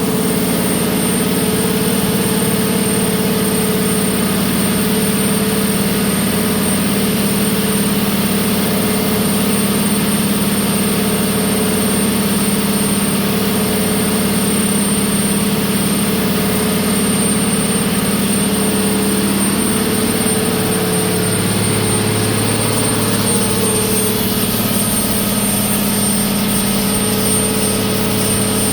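1066 kW MAN marine diesel engine running steadily at full load, a loud continuous drone with a thin high whine above it. About two-thirds of the way through, the drone's pitch shifts lower.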